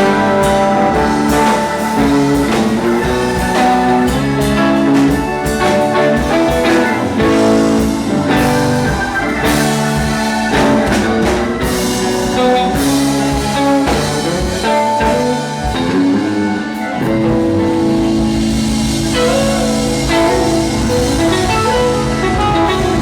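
Live band playing an instrumental passage without vocals, guitar over a drum kit.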